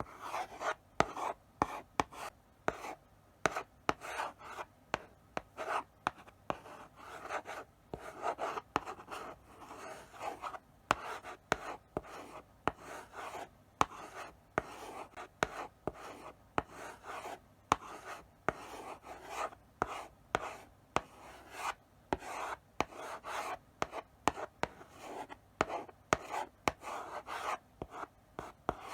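Chalk writing slowly on a blackboard: short scratchy strokes with sharp taps as the chalk meets the board, in an uneven rhythm with brief pauses between strokes.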